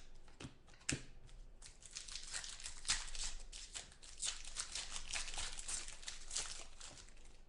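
Trading-card packs of 2011 Contenders football being torn open, the wrappers crinkling: a few sharp snaps, then a dense run of crackling from about two seconds in.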